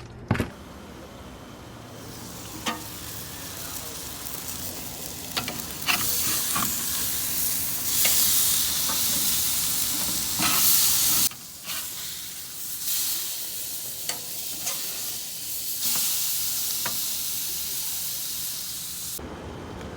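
Food sizzling as it cooks, a steady hiss with scattered clicks and scrapes of a utensil. It gets louder a few seconds in and cuts off abruptly twice.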